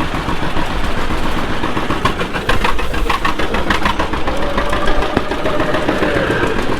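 A John Deere G tractor's two-cylinder engine running steadily under way, with a run of sharp knocks or clatters about two to three seconds in.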